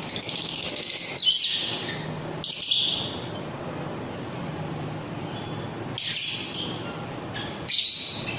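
Small pet parrots calling: short bursts of shrill chirps and screeches, about four times.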